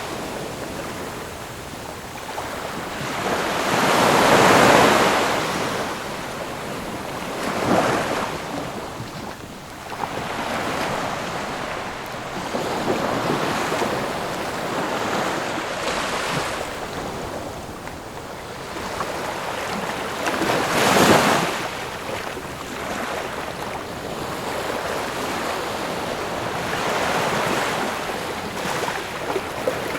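Ocean waves breaking and washing on the shore, a steady rush of surf with swells; the loudest wave breaks about two-thirds of the way through.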